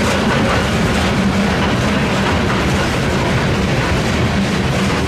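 Ballast hopper cars of a rail work train rolling past close by: steel wheels running on the rails make a loud, steady rolling noise with a low hum underneath.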